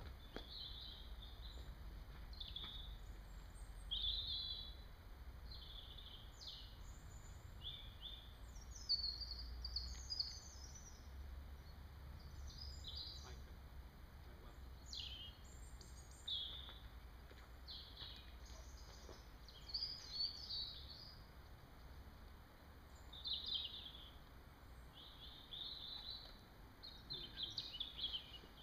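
Small songbirds chirping and singing in short repeated high phrases, over a low steady rumble.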